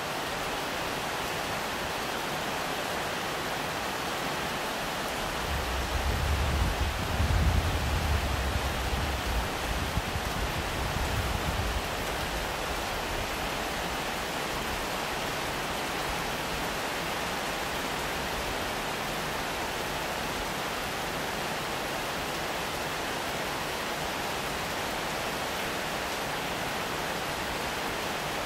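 Heavy rain falling steadily, a dense even hiss. A low rumble swells and fades from about six to twelve seconds in.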